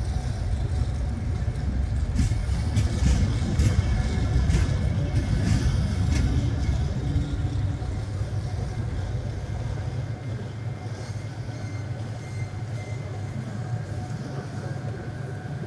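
Passenger train coaches rolling slowly alongside a station platform: a low rumble with a run of clanks and clicks in the first six seconds or so, the rumble easing after about ten seconds.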